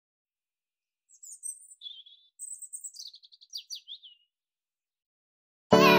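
A small songbird chirping and twittering: a string of quick, high calls lasting about three seconds, with dead silence before and after. Piano music starts loudly just before the end.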